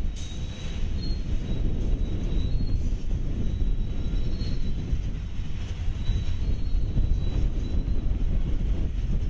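Freight train of enclosed autorack cars rolling past, a steady low rumble of wheels on rail.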